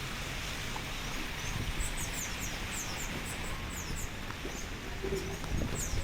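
Steady hiss of a wet snowstorm on the street. From about a second and a half in, it is joined by a run of short, high chirps, each falling in pitch.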